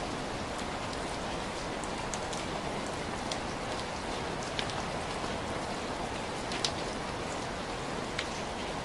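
Heavy rain falling steadily, a dense even hiss with scattered distinct drop splashes.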